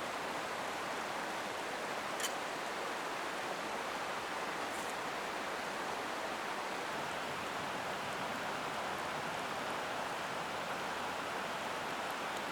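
Mountain stream flowing steadily, a constant rushing of water, with one sharp click about two seconds in.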